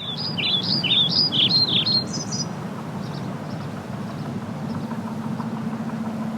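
A small bird singing a quick run of varied high chirps for the first two and a half seconds, then a few faint chirps, over a steady background rumble with a low hum.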